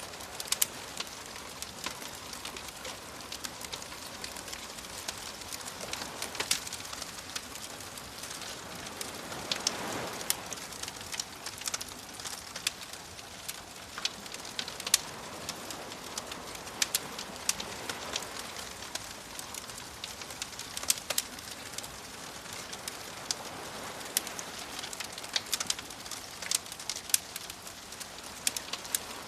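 Wood fire crackling with frequent sharp pops over the soft wash of waves, which swell gently a few times.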